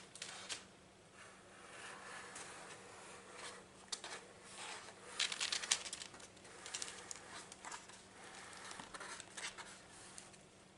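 Faint scratching and crinkling of parchment paper as a lampshade's curved edge is traced onto it, with scattered light taps and a busier stretch of rustling about five seconds in.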